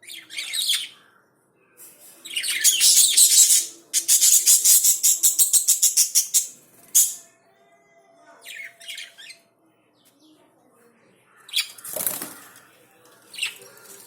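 Lovebirds flapping their wings and calling: loud, shrill, rasping bursts, one made of rapid even beats lasting a couple of seconds, followed by shorter bursts.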